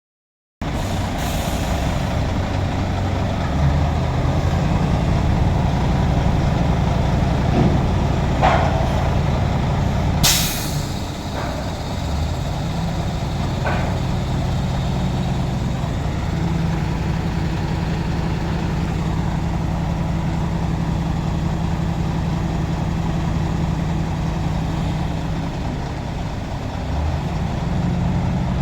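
Container truck's diesel engine running steadily, with one short, loud air-brake hiss about ten seconds in and two brief fainter higher-pitched sounds around it.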